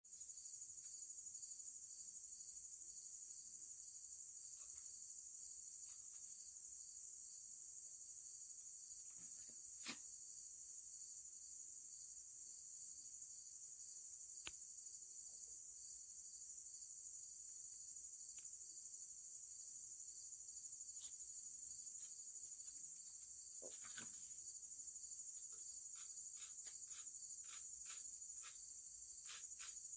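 Cricket chirping, a steady high-pitched trill that never lets up, with a few faint sharp clicks and taps, one about a third of the way in and a quick series in the last few seconds.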